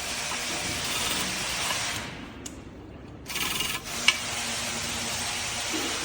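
Two long bursts of hissing noise with a pause of about a second between them, and a sharp click partway through the second burst.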